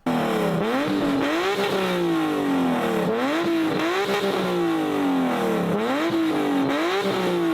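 Car engine being revved in the car show's rev battle: repeated throttle blips, roughly once a second, each rising in pitch and then dropping sharply.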